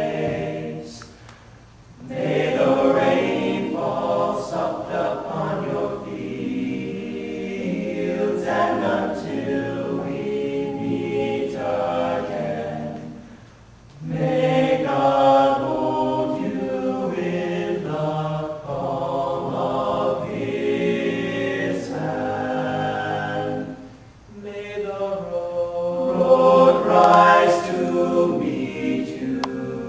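All-male a cappella vocal group singing in harmony, in long phrases with short breaks between them about every ten seconds.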